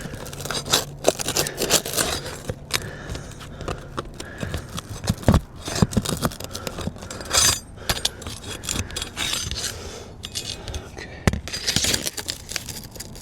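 Metal hand tool scraping and clicking against asphalt shingles in irregular strokes, prying under them to work the roofing nails loose.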